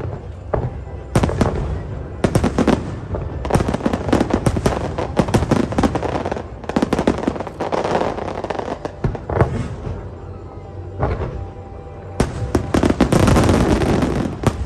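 Fireworks bursting in rapid crackling volleys, with a dense, loud barrage of cracks near the end.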